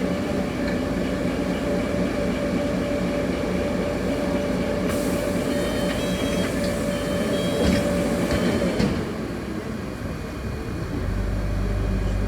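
Inside a moving city bus: running noise with a steady whine and a hiss. About nine seconds in, the whine and noise fall away as the bus slows to a stop, and a low rumble follows near the end.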